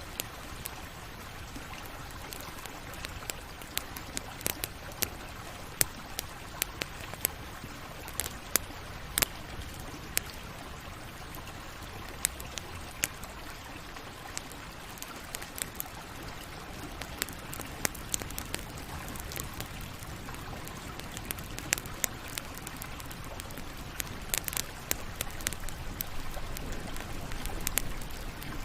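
Campfire burning, with frequent irregular sharp crackles and pops over a steady hiss.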